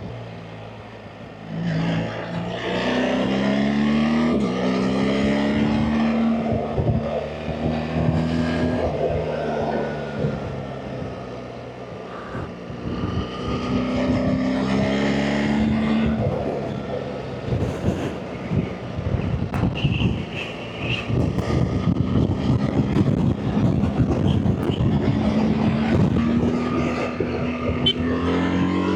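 BMW R 1300 GS Adventure's boxer-twin engine pulling up through the revs three times, easing off in between, with wind rush on the microphone.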